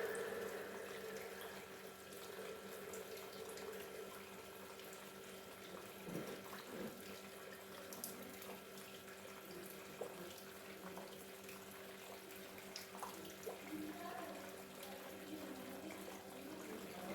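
Small paludarium waterfall trickling faintly, with scattered small drips and a steady low hum underneath.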